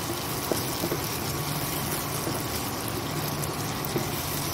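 Chopped onions and tomatoes sizzling in hot oil in a kadhai as a spatula stirs and scrapes through them, with a few light clicks of the spatula on the pan, over a steady low hum from the induction cooktop.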